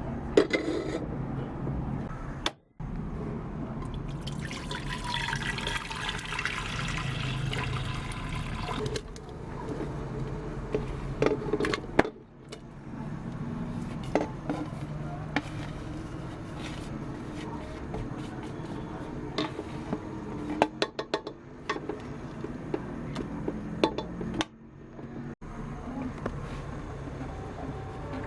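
Kitchen sounds: a stretch of running or pouring water, with sharp clinks and knocks of utensils and dishes, in short edited pieces.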